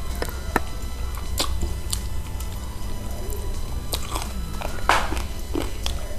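Close-up eating sounds: someone chewing and biting spicy chicken feet, with scattered wet clicks and small crunches and a louder one about five seconds in.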